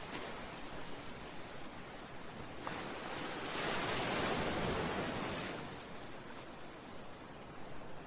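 Sea waves washing against a seawall and breakwater: a steady rush of surf that swells with one wave from about three and a half seconds in and ebbs again about two seconds later.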